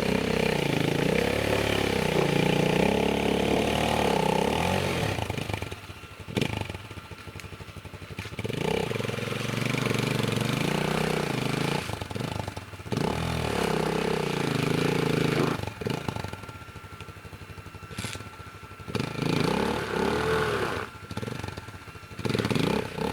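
Chinese Racer Panther motorcycle engine riding a muddy forest track, its pitch rising and falling as the throttle is worked. It eases off to a quieter low run twice, a few seconds each time.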